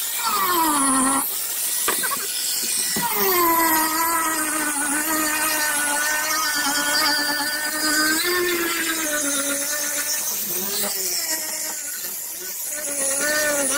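Handheld electric grinder running, its high motor whine wavering up and down in pitch, with brief dips about a second in and again around three seconds.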